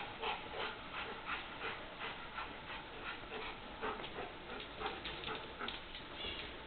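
Boston terrier attacking and biting at a ball: a quick run of short sounds, about three a second.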